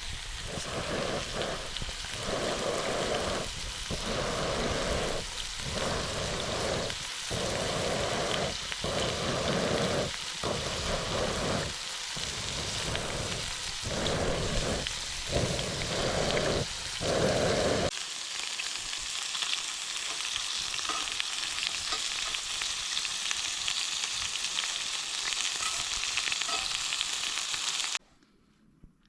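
Lamb steak sizzling over a campfire, a steady frying hiss. For the first two-thirds a fuller, lower sizzling surges and breaks off again and again. After that only the high hiss is left, which cuts off abruptly near the end.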